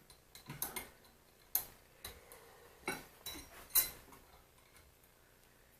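Small metal vise parts clicking and clinking against each other as they are handled and fitted by hand: about seven short, sharp clicks over the first four seconds.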